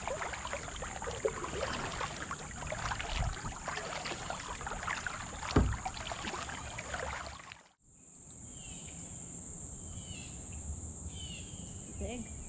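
Kayak paddling: water splashing and dripping off the paddle, with a sharp knock of paddle or hull a little past halfway. After a sudden dropout the scene goes quiet except for the steady high trill of crickets and a few short falling chirps.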